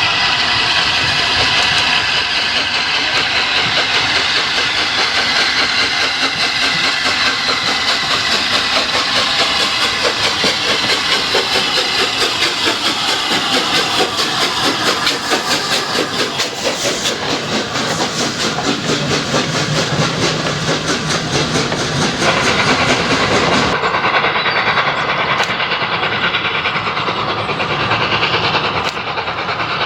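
Flying Scotsman, a three-cylinder LNER A3 Pacific steam locomotive, working a train by with steam hissing and wheels clattering over the rail joints. The sound turns duller about three-quarters of the way through.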